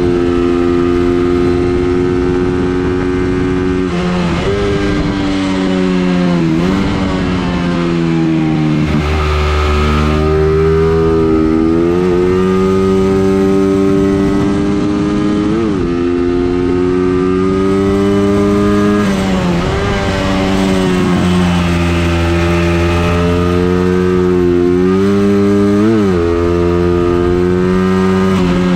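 A vehicle's engine lapping a circuit under load. The revs climb steadily for several seconds at a time, then drop sharply at shifts and braking, with quick throttle blips on the downshifts. The owner judged the engine very slow on this test.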